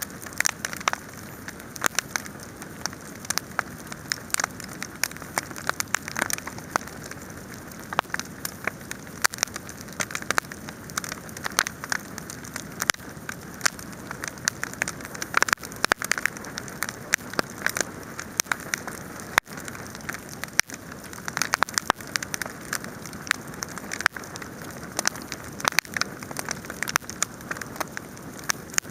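Wood fire burning, with many irregular crackles and pops of varying loudness over a steady hiss.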